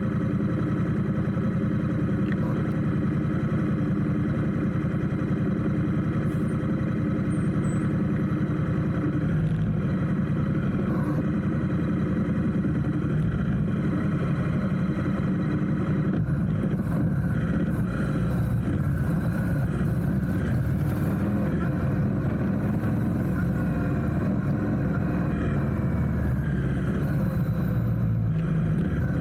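Vehicle engines running steadily in road traffic, with a constant low drone.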